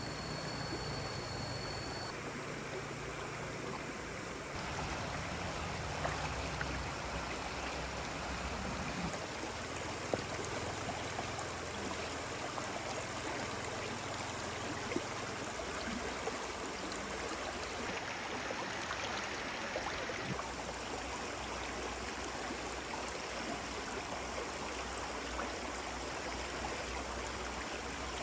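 Steady rush of flowing water, like a stream, with a few faint clicks or knocks.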